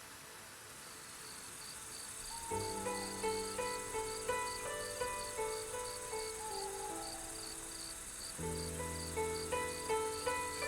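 Cricket chirping in a steady high pulse, about three chirps a second, with soft, sustained melodic music notes coming in about two and a half seconds in and swelling again near the end.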